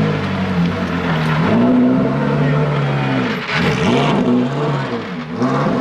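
Ferrari Challenge race cars' engines at racing speed, the engine note falling and rising several times through gear changes and passes, with sharp dips about three and a half and five seconds in.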